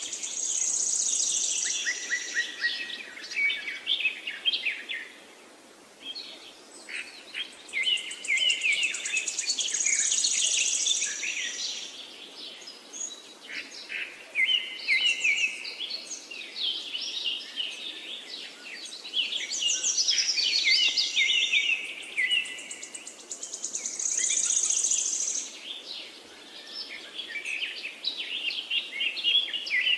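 Parakeets chattering: a steady stream of rapid chirps, trills and warbles, with a higher buzzy call standing out several times.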